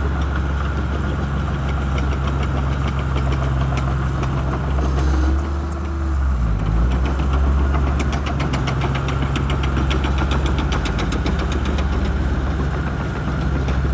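Shantui crawler bulldozer's diesel engine running steadily under work; its pitch dips briefly about six seconds in, then recovers. From about eight seconds in, a rapid, even clicking runs over the engine for a few seconds.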